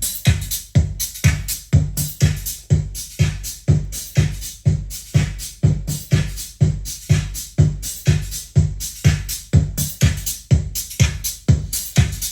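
Electronic dance music with a steady kick-drum beat, about two strong beats a second, played back through a Yamaha FX-3 loudspeaker as a sound test after its capacitors were replaced and its midrange repaired.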